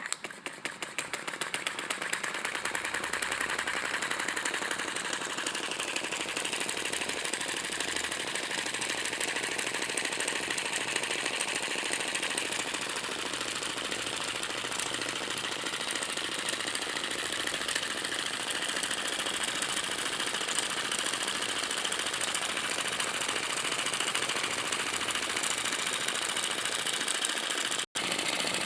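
Small engine made from an old grass-cutter engine, starting up and running fast and steady with a dense mechanical rattle. It gets louder over the first couple of seconds as it comes up to speed, then holds even.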